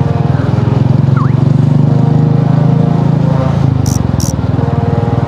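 Motorcycle engine running on the move, a steady low drone that swells in the middle and eases off about three and a half seconds in. Two brief hisses sound close together near the end.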